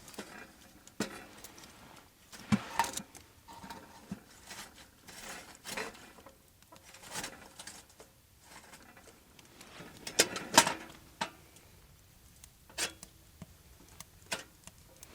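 Irregular clicks, taps and knocks, with a louder cluster of knocks about ten seconds in.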